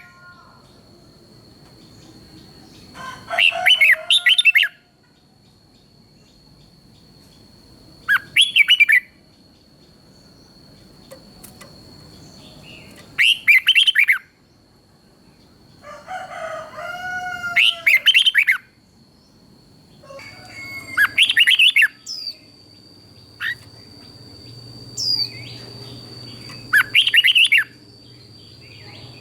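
Red-whiskered bulbul singing: short, clear whistled song phrases of about a second each, repeated every four to five seconds.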